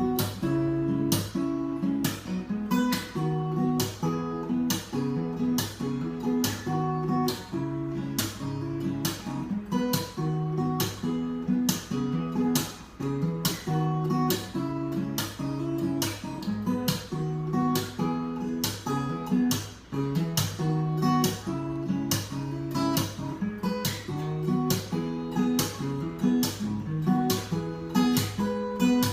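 Solo acoustic guitar played fingerstyle: a steady fingerpicked pattern of bass notes and higher plucked strings.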